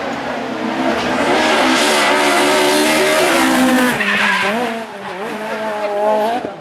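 Rally car on a special stage going past at speed, engine at high revs with loud tyre and road noise. About four seconds in the revs drop, then rise and fall as the driver works through the next section.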